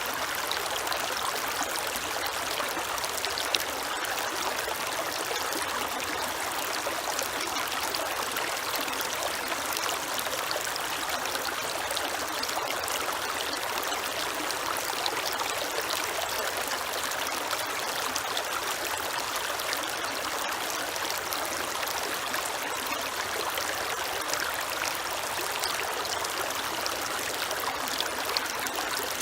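Creek water running steadily, an even rushing sound with no breaks.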